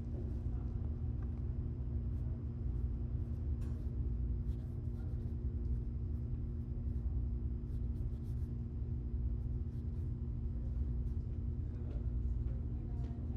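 A steady low hum and rumble with a few faint clicks and ticks scattered through it.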